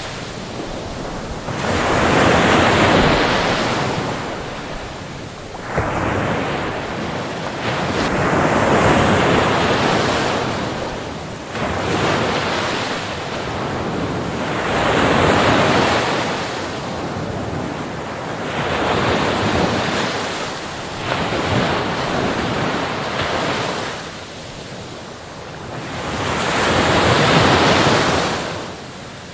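Ocean surf breaking and washing up a beach, one wave after another, swelling and fading roughly every five to seven seconds.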